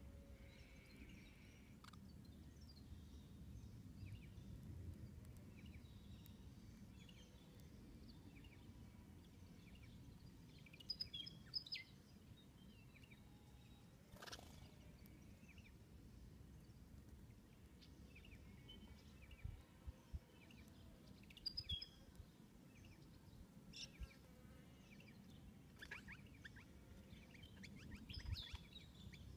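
Faint outdoor ambience with a low steady rumble, over which small birds give scattered short high chirps, in a few clusters: about eleven seconds in, around twenty-two to twenty-four seconds, and near the end. One brief sharp sound about fourteen seconds in.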